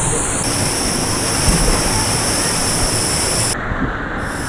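Steady rush of flowing water from a rocky canyon river.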